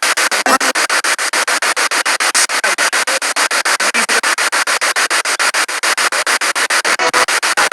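Spirit box sweeping through radio stations: loud static chopped into rapid, even bursts, about nine a second.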